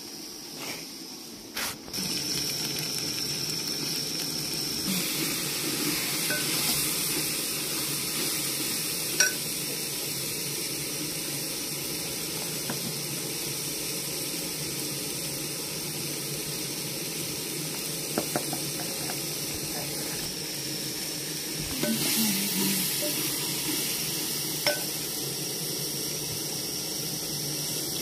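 Chopped okra and tomato sizzling in an aluminium pot, with a metal spoon clinking against the pot a few times as it is stirred. A couple of knocks sound near the start.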